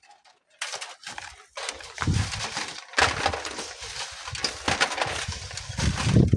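Strong wind gusts buffeting the microphone with a low rumble, over gritty crunching and crackling of sand and stones at a manual sand-mining cliff. The sound cuts out for a moment about three seconds in.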